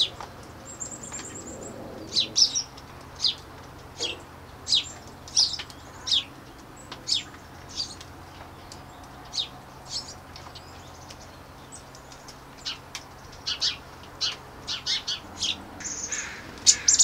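A small bird chirping over and over: short, high chirps at an irregular pace of roughly one a second, bunching together near the end, over a faint steady low hum.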